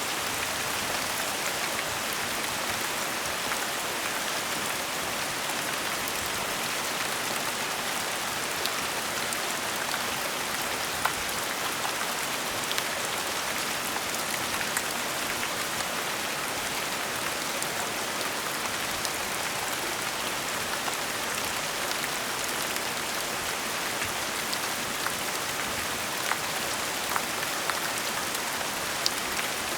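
Steady gentle rainfall: an even hiss of rain with scattered individual drops ticking on a surface.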